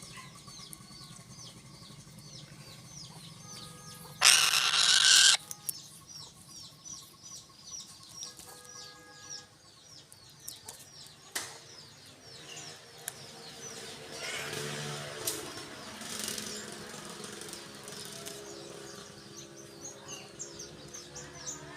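Birds chirping rapidly, several short high chirps a second, with a loud rushing burst lasting about a second about four seconds in and a sharp click later on.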